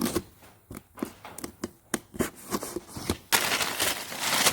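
A shipping package being unwrapped by hand: scattered taps and clicks of handling the box, then a loud rustle of crinkling packing wrap from just past three seconds in.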